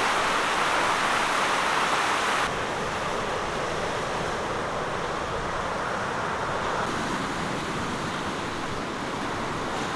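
Floodwater in a swollen beck, a steady rush of fast-flowing water. About two and a half seconds in it cuts abruptly to a quieter, lower wash of water.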